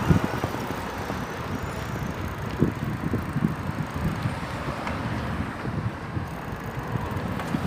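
A bicycle riding along, with wind rushing over the microphone and scattered small knocks and rattles from the bike over the road surface.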